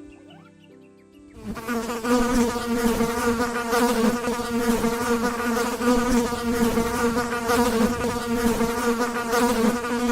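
Flying insect buzzing: a steady, loud, droning wing buzz that starts about a second and a half in.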